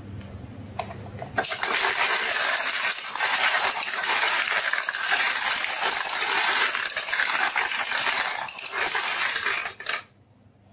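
A crowd of marbles rolling and clattering down a marble run: a dense stream of small clicks that starts suddenly about a second and a half in and cuts off sharply near the end. A low hum at the start stops as the clatter begins.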